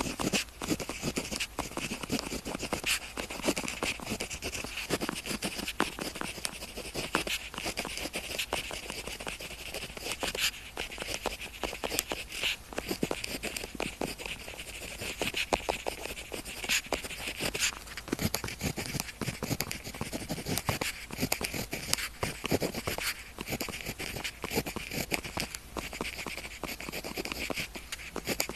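Pen tip scratching across paper in continuous writing, with many short sharp strokes and a raspy hiss.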